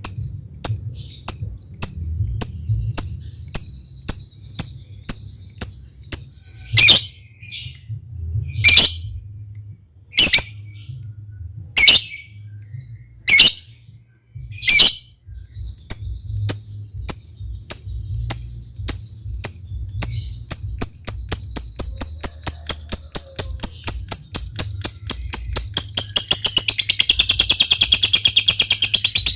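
Lovebird calling: sharp high ticks about twice a second, broken by half a dozen louder, harsher calls. Two-thirds of the way in, the ticks speed up and run into a long, unbroken, rapid high chatter, the lovebird's 'ngekek', over a low steady hum.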